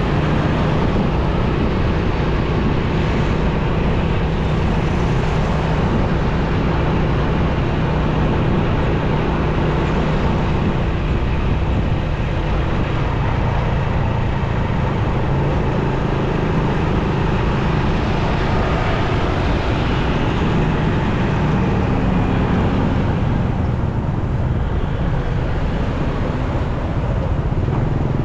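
Motorcycle engine running steadily while riding, over a steady rush of road noise.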